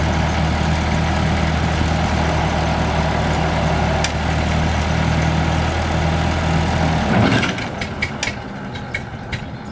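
Classic Ford tractor engine running steadily, then cutting out about seven seconds in, followed by a few light clicks.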